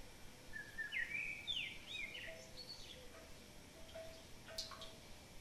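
Faint birds chirping, a few short gliding chirps in the first half, over a low background hiss, with a light click a little before the end.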